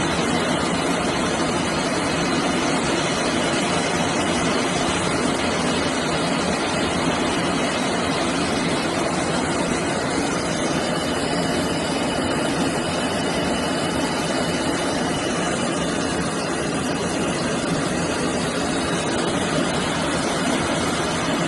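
Jet aircraft engines running steadily: a dense, even rush of noise with a faint high whine.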